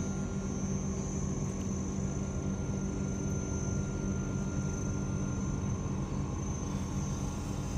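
Steady low drone, like an engine running at a distance, with a constant high-pitched insect trill above it.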